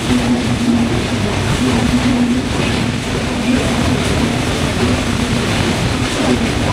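Broad-gauge train running at speed, heard from the moving coach: a steady loud rumble and rush of wheels on the rails, with a low hum that comes and goes.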